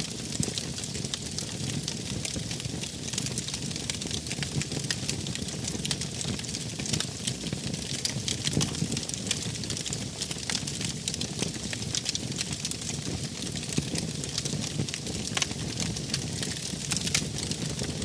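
Wood fire burning steadily: a low rumble of flames with dense, irregular snaps and crackles of burning wood.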